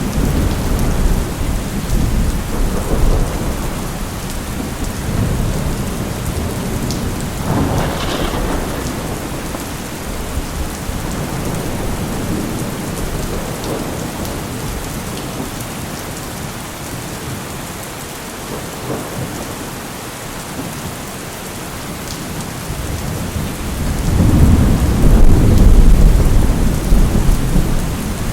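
Steady rain with rolling thunder. The thunder eases off in the middle and swells into a loud, low rumble near the end.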